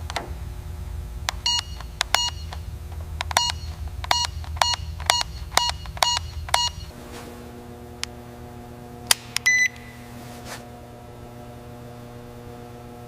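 A rapid series of short electronic beeps and clicks over a steady low hum. After about seven seconds the beeping stops and a steady electrical hum remains, with one more beep about two seconds later.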